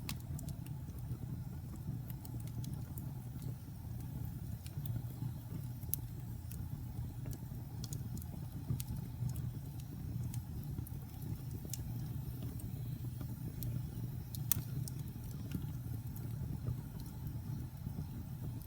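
Wood fire burning in a fireplace: a steady low rumble of flames with scattered sharp crackles and pops, one louder pop a little past the middle.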